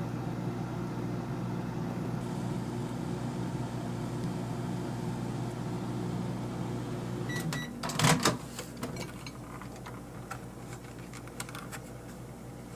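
Microwave oven running with a steady hum. It stops a little over seven seconds in with a short beep, followed by a brief clatter of knocks.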